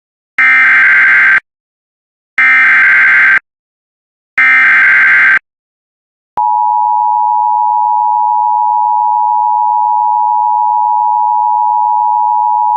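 Emergency Alert System SAME header: three one-second bursts of screeching digital data tones, then about six seconds in the EAS attention signal, a steady two-tone alarm, starts and holds. Together they mark the start of a new alert broadcast.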